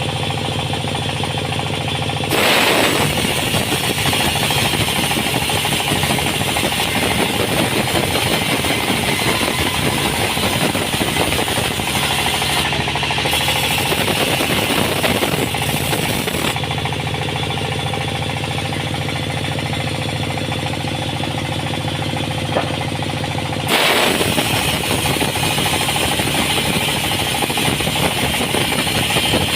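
Sawmill running: a steady engine hum, with the saw blade cutting through wood in stretches, a harsher, rougher sound that sets in about two seconds in, drops away to the plain engine hum for several seconds past the middle, and comes back near the end.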